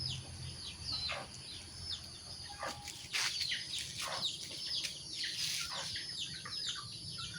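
Chicks peeping over and over: many short, high, falling peeps, several a second, from more than one bird.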